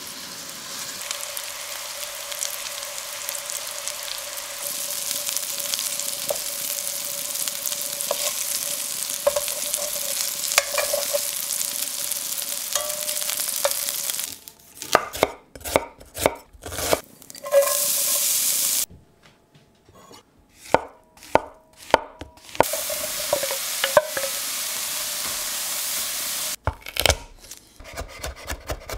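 Pork meatballs sizzling steadily as they fry in olive oil in a stainless steel sauté pan, then sharp knife chops on a wooden chopping board at about two to three a second, broken up by short stretches of sizzling. Near the end it is a fast run of chops through garlic cloves.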